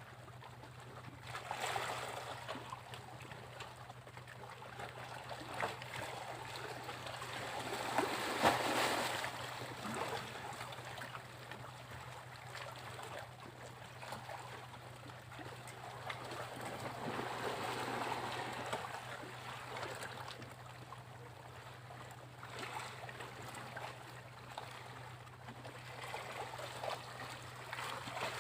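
Sea waves washing onto a beach, swelling and falling back every several seconds, the loudest surge about eight seconds in, over a steady low hum.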